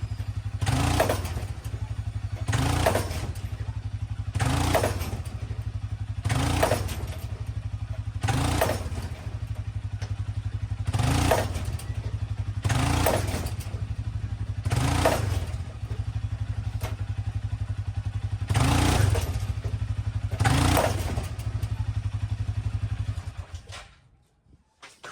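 Four-wheeler (ATV) engine running, with about eleven throttle surges roughly every two seconds as it tugs on a chain to pull a bent truck fender into line. The engine shuts off near the end.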